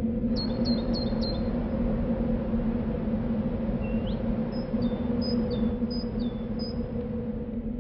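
Small songbird chirping: four quick chirps, then a string of whistled notes that drop sharply in pitch, over a steady low hum.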